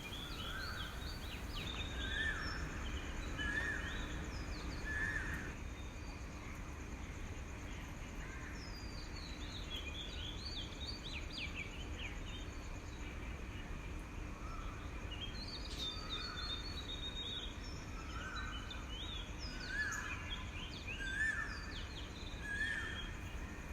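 Birds calling: a short note repeated about once a second in runs, with clusters of quick falling chirps higher up, over a steady low rumble.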